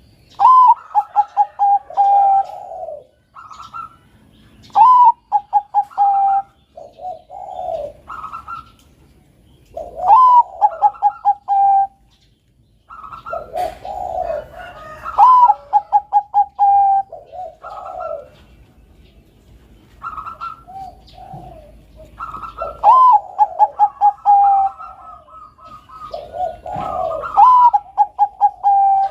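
Zebra dove (perkutut, Bangkok strain) cooing in repeated phrases about every five seconds. Each phrase is a rising note, a quick run of short notes and a longer held note, with shorter, lower coos between the phrases.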